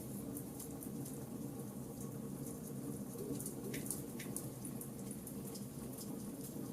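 Charcoal campfire burning, a steady low rush with scattered small crackles and pops, two sharper pops near the middle.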